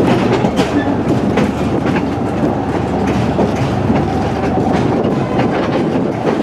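Two-foot-gauge railroad car rolling along the track, heard from aboard the open car: a steady rumble with the wheels clicking over rail joints at irregular intervals.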